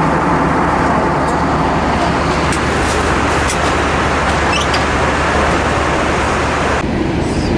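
Steady cabin noise inside an Airbus A320-232 airliner in flight: the even rush of airflow and the hum of the engines. Near the end the hissing upper part of the noise thins abruptly.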